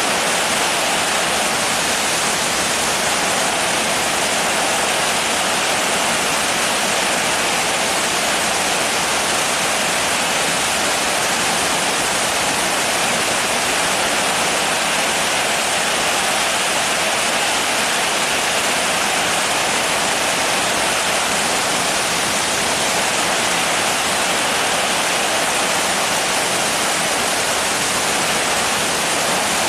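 Rain falling steadily: a dense, even hiss with no single drops standing out and no change in strength.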